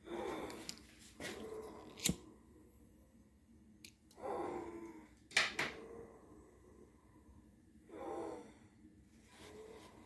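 A person's slow, noisy breathing, one breath about every four seconds, with two sharp clicks in between.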